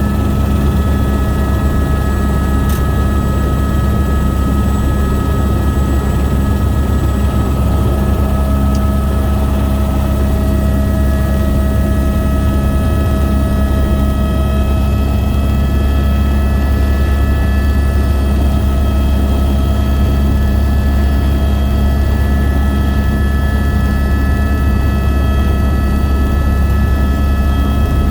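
Helicopter in flight, heard from inside the cabin: a steady, loud rotor and engine drone with a high, even whine over it.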